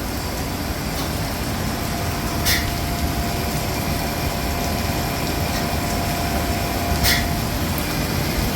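Hydraulic servicing pump running steadily as it fills the center hydraulic reservoir, with a steady whine that comes in about two seconds in. Two short sharp ticks are heard.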